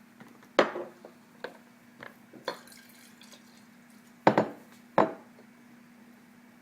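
Vinegar poured from a bottle into cups, with several sharp clinks and knocks of the bottle and cups and some dripping liquid.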